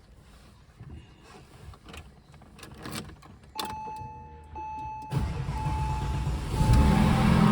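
Porsche 996.2 GT3's 3.6-litre flat-six being cold-started after sitting 18 hours: a few clicks and a steady high whine, then about five seconds in the starter cranks and the engine catches near the end, running loud.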